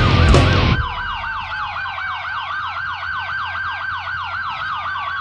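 A siren sounding a fast yelp, about four rising sweeps a second, with a second, slower siren tone gliding down through it. A louder, denser sound cuts off abruptly about a second in.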